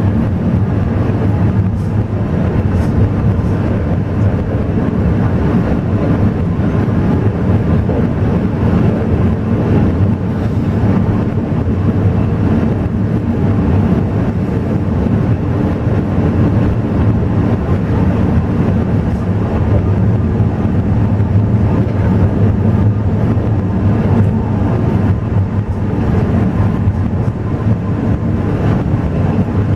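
Alishan Forest Railway train running, heard from inside the carriage as a steady, loud low rumble with a faint hum.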